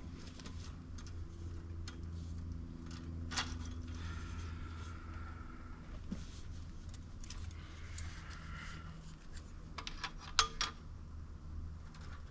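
A low, steady engine hum with a few sharp metallic clinks, one about three seconds in and a quick cluster near the end.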